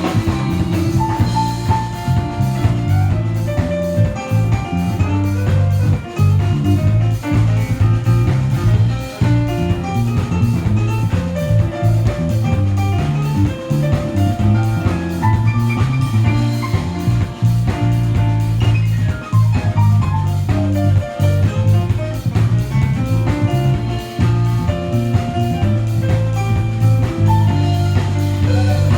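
Live band music without vocals: a drum kit keeping a steady beat under a heavy bass line while a guitar plays a melodic lead, with a few sliding notes in the middle.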